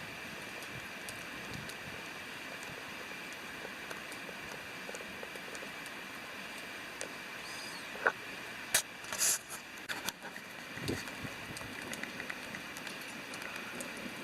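Steady rush of river water with a wood campfire crackling over it; about eight seconds in comes a short run of loud sharp pops and snaps from the burning wood.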